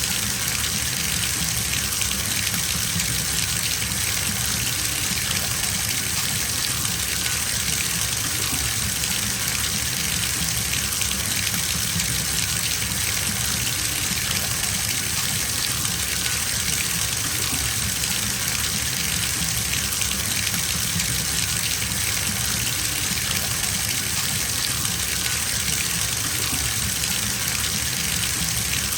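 Bathtub filling from a running tap: a steady gush of water pouring into the tub.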